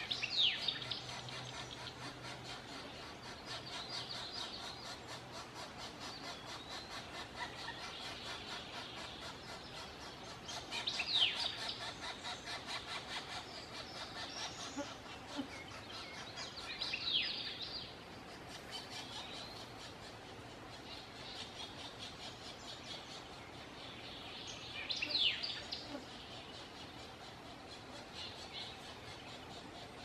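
Birds calling: a fast, steady run of high calls throughout. Four louder high calls slide downward in pitch, spaced several seconds apart.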